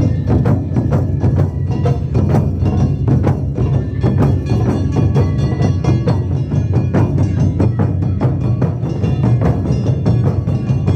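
Live Japanese taiko drum ensemble playing a fast, driving rhythm: deep drum hits packed closely together with sharp wooden clacks, and a pitched instrument line sounding over the drums.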